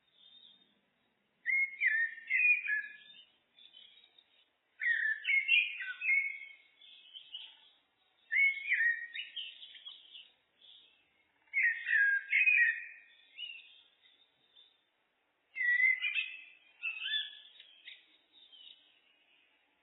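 Common blackbird (Turdus merula) singing: five separate phrases of fluty whistled notes, each a couple of seconds long, with short pauses between them.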